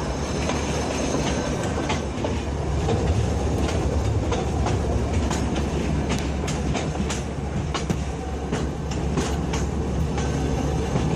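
A train rolling on the rails: a steady low rumble with many irregular clicks and clacks from the wheels on the track.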